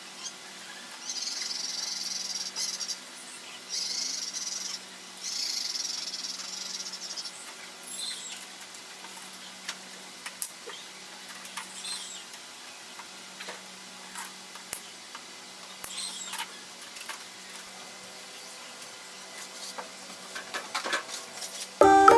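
Hand tool working on cage parts: three short stretches of scraping in the first seven seconds, then scattered light clicks and taps.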